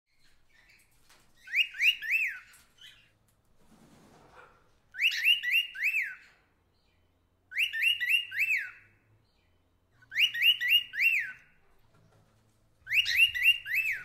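A bird calling: a phrase of four quick, clear notes that rise and fall in pitch, repeated the same way five times at even gaps of two and a half to three seconds.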